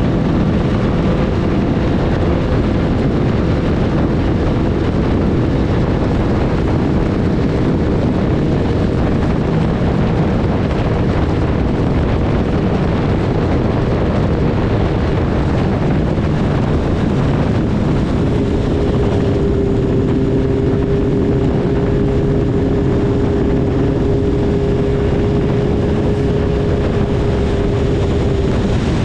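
BMW S1000RR inline-four motorcycle ridden at a steady pace, its engine note held steady under a heavy rush of wind on the microphone. The engine pitch settles slightly lower about two-thirds of the way through.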